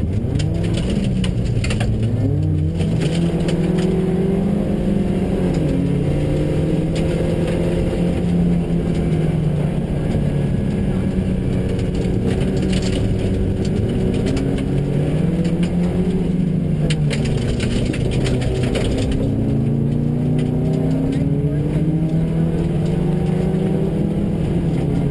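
Subaru rally car's engine heard from inside the cabin, revving up and down hard through gear changes at stage speed. Two runs of the same car play together, one in each stereo channel.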